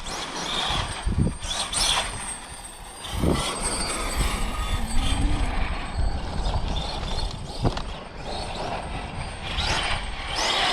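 Losi 5ive TE 3.0 1/5-scale electric RC truck driving on pavement, its motor and drivetrain whining and changing pitch as it speeds up and slows, with tire noise.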